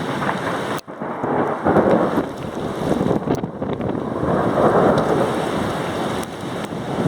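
Severe thunderstorm: heavy rain and gusting wind, with a steady rush that swells louder twice. It cuts out abruptly for an instant about a second in.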